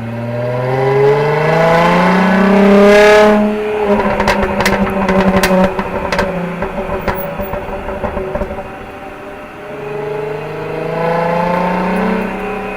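Jaguar XE 35t's supercharged 3.0-litre V6 accelerating hard, its note rising for about three and a half seconds, then the exhaust crackling in a quick string of sharp cracks as the throttle is lifted. After a steadier stretch it pulls again with a rising note and starts crackling again near the end.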